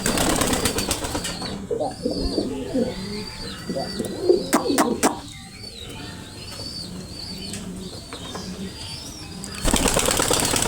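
Moyna thuti pigeons cooing, low and repeated, with bursts of wing flapping in the first second and again near the end.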